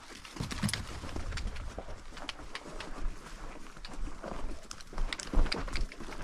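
Footsteps crunching and rustling through dry grass and brush, irregular crackling steps.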